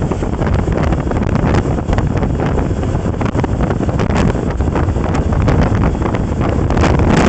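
Heavy wind noise buffeting the microphone while on the move, a dense rushing roar with frequent gusty swells and no letup.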